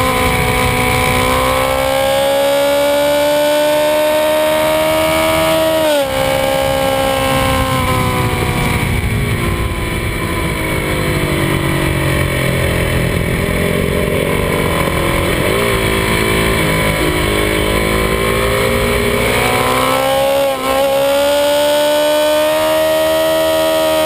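Kawasaki D-Tracker 250 single-cylinder engine running under way, with wind rush. The engine note rises and then drops sharply about six seconds in as it shifts gear. Through the middle it eases off and the wind noise takes over, then it pulls and climbs again, with a quick shift about twenty seconds in.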